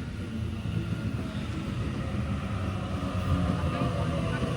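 Low rumble of a Sydney Waratah electric train moving at the station, with faint steady motor whine tones that grow a little louder near the end.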